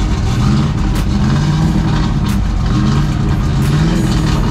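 Car engine running and revved twice, the pitch rising each time.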